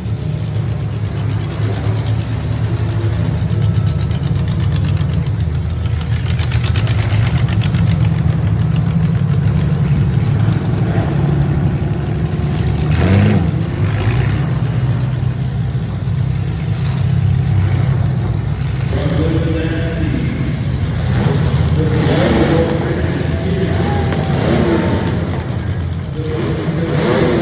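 Demolition-derby compact cars' engines running, idling and revving, with a brief louder burst about 13 seconds in.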